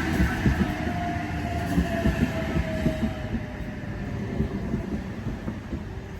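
Train passing and moving away, wheels clattering over the rails with a whine that falls in pitch, fading toward the end.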